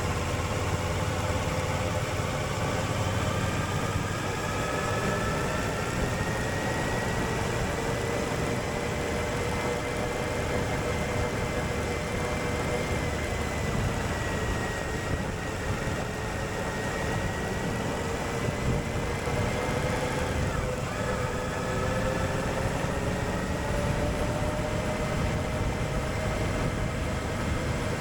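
Suzuki V-Strom 1050XT's V-twin engine running steadily at road speed while the bike is ridden, its note drifting slowly up and down, under a constant rush of wind and road noise.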